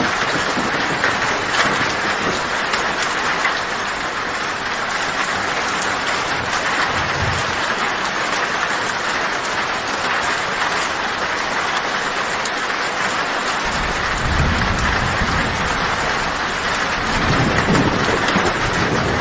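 Heavy rain drumming steadily on a tin roof, a dense hiss full of fine drop ticks. Low thunder rumbles in about three-quarters of the way through and swells again near the end.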